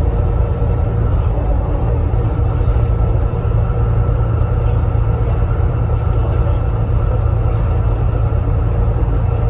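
Volvo B7TL double-decker bus heard from on board while under way: steady engine and road rumble, with a thin high turbocharger whistle that drops slightly in pitch in the first second or so.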